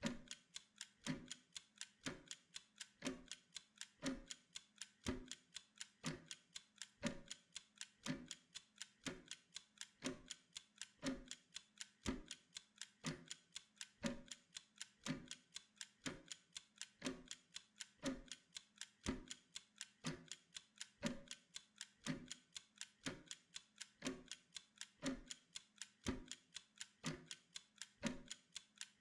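Mechanical kitchen timer ticking steadily: quick, even ticks with a heavier tick about once a second, counting down the work interval.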